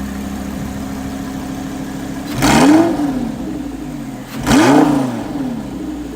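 Audi R8 V10 Plus's V10 engine through a Capristo exhaust, idling steadily, then blipped twice about two seconds apart, each rev rising quickly and dropping back to idle.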